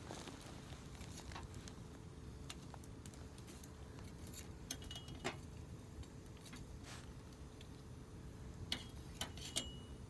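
Wood campfire burning with sparse sharp crackles and pops over a low steady background, several of them close together near the end.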